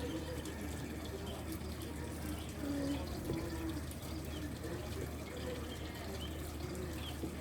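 Scattered soft, short, low-pitched bird calls with a few higher chirps, over a steady hiss like running water and a low hum.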